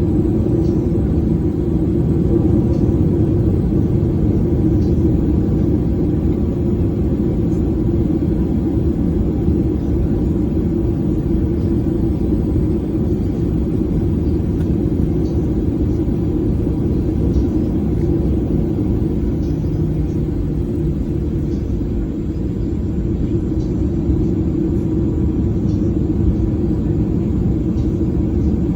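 Steady low rumble of a Boeing 737's engines and airflow, heard inside the passenger cabin.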